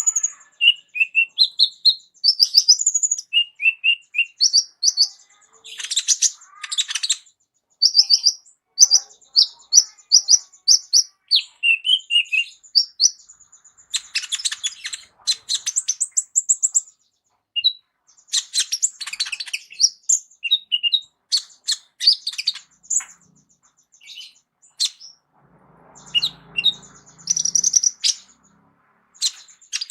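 A kolibri ninja sunbird singing a long, fast, high-pitched song of quick chips, trills and sweeping notes, varied from phrase to phrase as a bird loaded with mimicked 'isian' phrases. It pauses briefly a few seconds before the end, then resumes.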